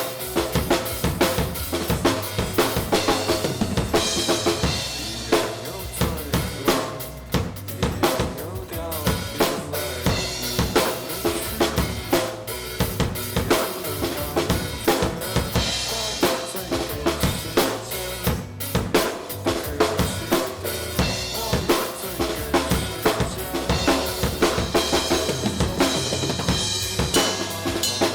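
Drum kit played in a driving rock beat, kick drum and snare with cymbal crashes, over a recorded rock band track of guitars and bass with no singing.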